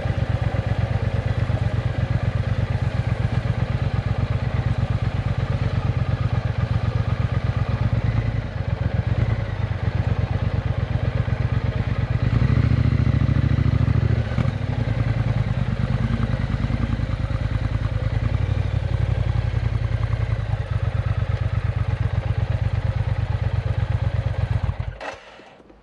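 Triumph Bonneville T120 parallel-twin engine running through a Vance & Hines exhaust with X-pipes, idling with a steady pulse. It revs up briefly about halfway through, then cuts off suddenly about a second before the end as the engine is shut off.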